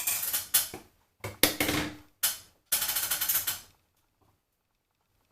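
Three bursts of rapid clicking and rattling, each about a second long, from small objects being handled, then quiet.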